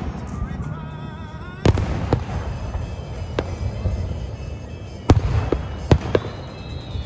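Aerial firework shells bursting: a loud boom about one and a half seconds in, then a few smaller bangs, and another loud boom about five seconds in followed by a quick run of further reports.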